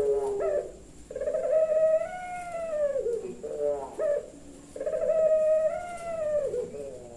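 Puter pelung dove cooing: long, drawn-out arching coos, each broken off into a few short quick notes, twice over.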